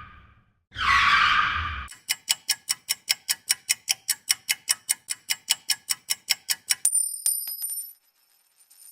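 A series of sound effects: a short screech like a tyre skid, then a rapid run of sharp metallic ticks at about six a second for some five seconds, then a brief high metallic jingle.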